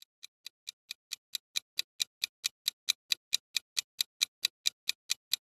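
Ticking-clock sound effect counting down the guessing time: sharp, evenly spaced ticks, about four or five a second, fading in over the first second and then holding steady.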